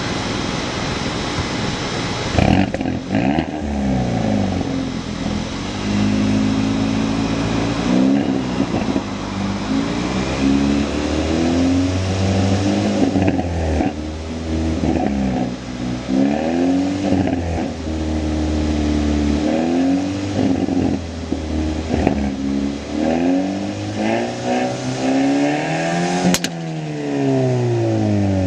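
Hyundai i30 N Line's four-cylinder engine and exhaust, revving up again and again, the pitch climbing and then falling away sharply, with brief sharp cracks a few seconds in and near the end.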